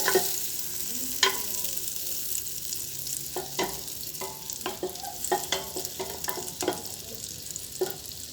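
Butter melting and sizzling in a cooking pot, with a spoon stirring it and knocking against the pot over and over.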